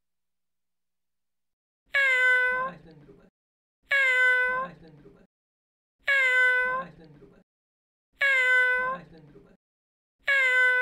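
A grey-and-white kitten meowing five times at a steady pace, about two seconds apart, starting about two seconds in; each meow is short and sounds the same as the others.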